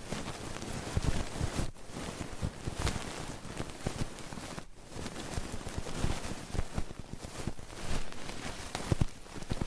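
ASMR trigger sounds worked right on the microphone: irregular scratching, rubbing and crackling with soft low thumps, briefly pausing twice.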